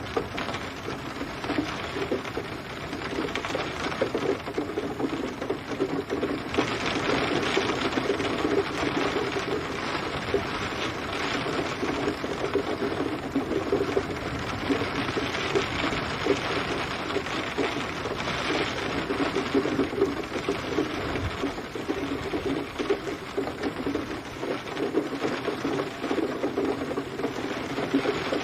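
Steady rain, a dense even hiss of many drops that keeps up without a break.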